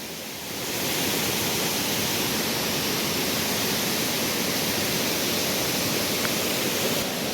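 Steady rush of waterfall water pouring over rocks, heard up close, coming up louder about a second in.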